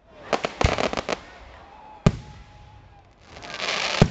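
Aerial fireworks shells bursting: a quick cluster of sharp bangs, then a single louder bang about two seconds in. Near the end a rush of noise builds up and another bang hits.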